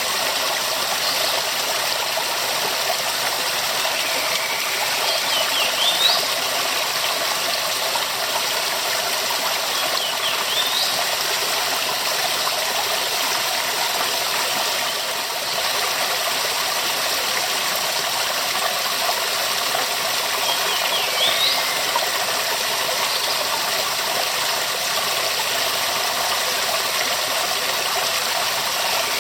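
Waterfall rushing steadily, a dense, even roar of falling water. A few brief, faint high chirps rise over it about 5, 10 and 21 seconds in.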